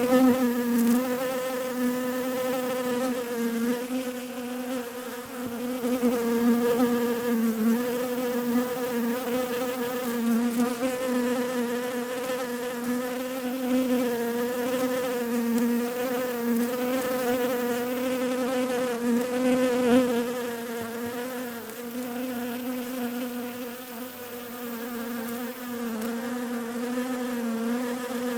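Bees buzzing in a continuous drone that wavers slightly in pitch, steady in loudness.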